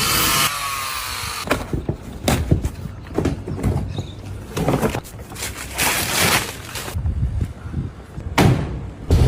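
Packaging being handled and opened, heard as a run of irregular rustles, scrapes and sharp knocks.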